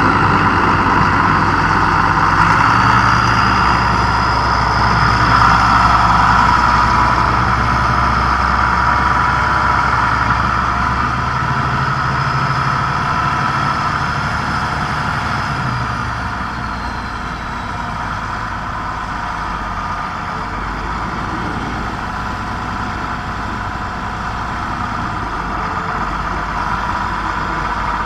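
Tractor engine running steadily, easing down slightly in pitch and level about halfway through.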